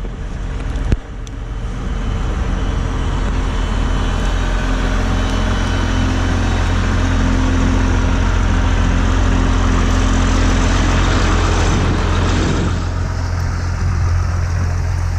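John Deere 544G wheel loader's diesel engine running steadily, growing louder through the middle and easing back near the end. A single sharp knock comes about a second in.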